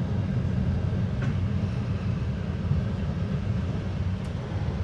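Metra commuter train heard from inside its cab car while rolling along the track: a steady low rumble of wheels and running gear, with a faint click about a second in.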